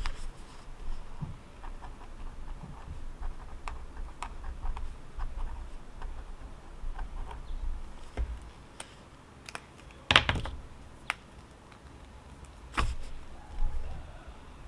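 Scattered small clicks and taps, as from handling pens, pages and objects at a study desk, over a low outdoor rumble, with two louder knocks about ten and thirteen seconds in.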